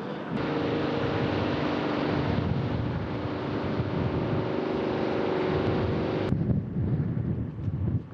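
Soyuz rocket engines at launch: a steady, dense rumble with wind on the microphone. The sound changes abruptly about six seconds in.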